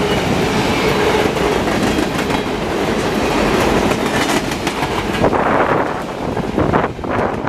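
Freight cars of a diesel-hauled freight train rolling past at speed, a steady rumble of steel wheels on rail with rapid clicking from the wheels.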